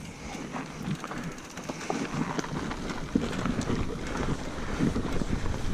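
Wind rushing over the microphone and mountain bike tyres rolling on a dirt trail, with scattered clicks and rattles from the bike; the noise grows gradually louder as the bike picks up speed downhill.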